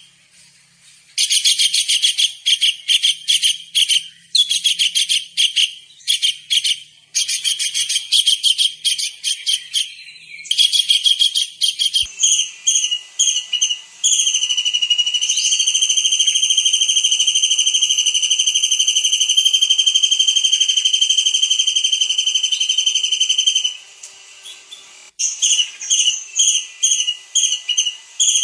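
Kingfisher (tengkek udang) calling: bursts of shrill, very fast repeated notes, then one long steady high whistle lasting about ten seconds, then quick short notes again near the end.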